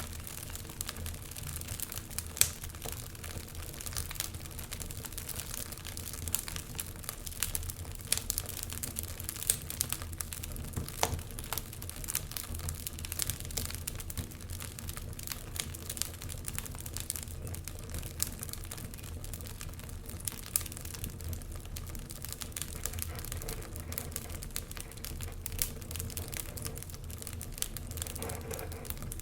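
Wood fire crackling in a fireplace: irregular sharp pops and snaps over a low, steady rumble, with one louder pop about two and a half seconds in.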